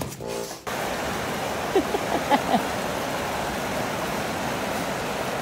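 A short tail of music cuts off under a second in, giving way to a steady rushing noise, with a few brief squeaky chirps about two seconds in.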